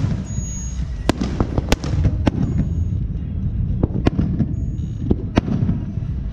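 Fireworks going off continuously: a steady low rumble of distant bursts with sharp cracks and bangs every half second or so.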